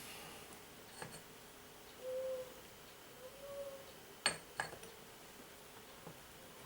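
A few faint clicks and taps of small starter-motor parts being handled, with a sharper click about four seconds in. Two brief low hums sound around two and three and a half seconds in.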